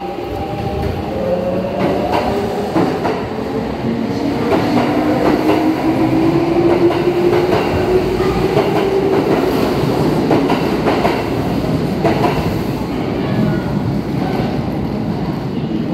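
Kintetsu electric train with a Nara-themed wrap pulling out of an underground station platform. An electric whine rises slowly in pitch as it picks up speed, over a steady rumble and the clatter of wheels over rail joints.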